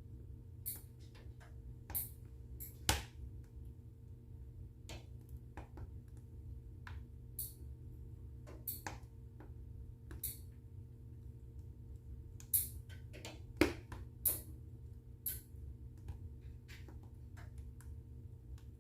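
Wood fire burning in a fireplace, crackling with irregular sharp pops over a low steady rumble; a few louder pops come about three seconds in and again around twelve to fifteen seconds in.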